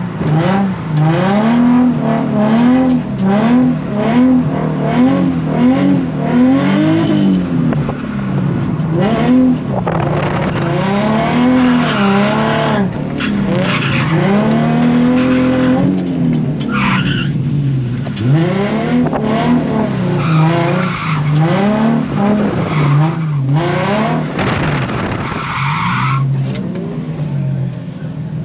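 Drift car's engine revving hard, the revs rising and falling over and over, roughly once a second, through a drift run. Tires squeal in short bursts, the clearest a little past the middle and near the end.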